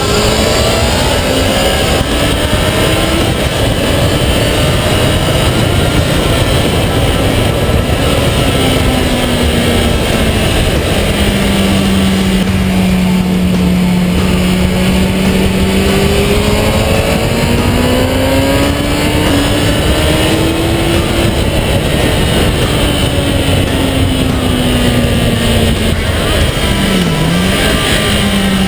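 2008 Kawasaki ZX-10R inline-four engine at track speed, heard from a camera on the bike's fairing over heavy wind and road rush. The engine pitch climbs at first, eases off and holds low and steady through the middle, climbs again, falls, and after a brief dip near the end rises once more.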